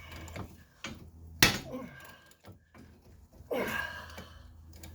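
A single sharp pop about a second and a half in: a seized steel end-link shaft breaking loose and shifting a little in the rubber lower control arm bushing as it is pressed out.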